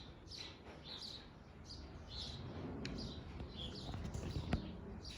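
Small birds chirping: short high chirps repeated about twice a second over a low rumble, with a sharp click about four and a half seconds in.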